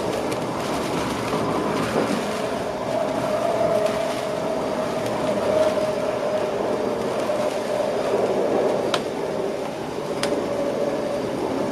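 Passenger train running along the track, heard from inside the driver's cab: a steady rolling rumble with a humming tone that sinks slightly in pitch. Two sharp clicks come near the end.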